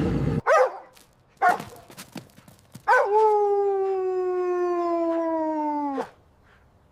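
A dog gives two short falling yelps, then one long howl of about three seconds whose pitch sinks slowly before it breaks off. The tail end of a low, rough roar fades out in the first half second.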